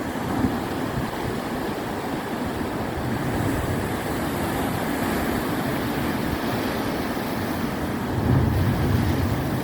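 Sea waves breaking and washing onto the shore, a steady rushing with a louder surge about eight seconds in.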